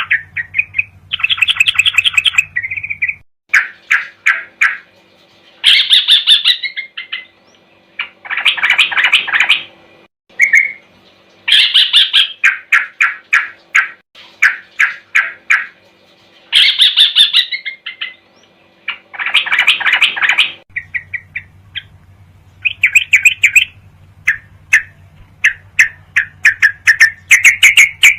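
Yellow-vented bulbul (trucuk) song from a training recording: bursts of fast, chattering, bubbly notes repeated every second or two. A faint low hum sits behind some of the phrases.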